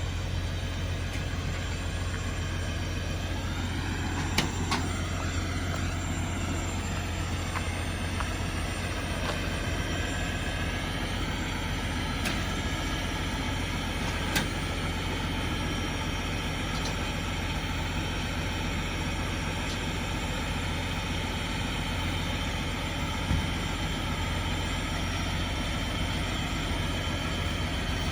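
Truck engine running steadily with a low rumble, with a few sharp metallic clanks, about ten seconds apart.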